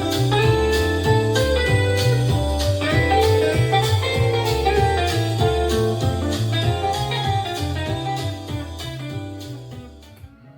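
Music played back through a portable party speaker: guitar over a repeating bass line and a steady drum beat, fading down near the end.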